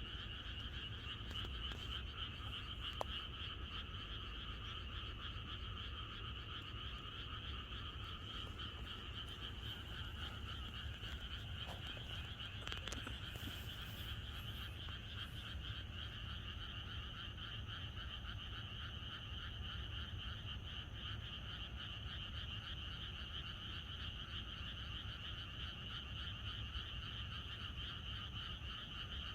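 Chorus of many frogs calling together: a dense, continuous, rapidly pulsing croaking that never lets up.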